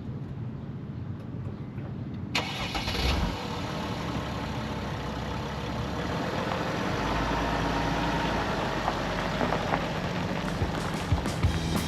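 Van engine starting about two seconds in, then running steadily.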